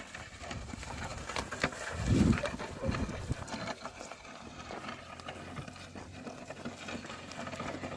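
Oxen pulling a plough through a field: scattered soft knocks and rustles, with a brief low thud about two seconds in.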